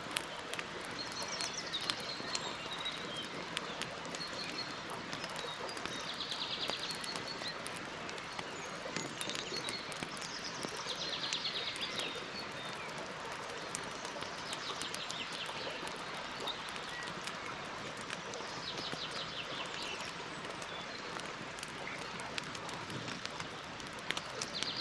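Campfire crackling steadily with small pops, while songbirds call; a short rapid trill comes back every four or five seconds.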